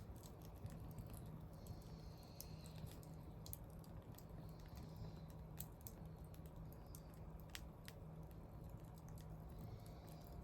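Wood fire crackling faintly, with irregular sharp pops from the burning wood over a steady low hum.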